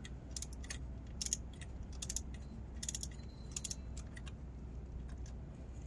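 Ratchet wrench clicking in short runs of strokes as a spark plug is tightened down.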